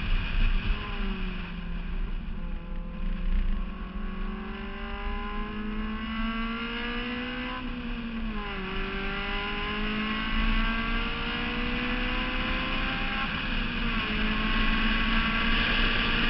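Honda S2000's inline-four engine under load on track, its pitch climbing steadily, dropping sharply about eight seconds in and again briefly about thirteen seconds in, then climbing again. Wind rumble over the outside-mounted microphone runs underneath.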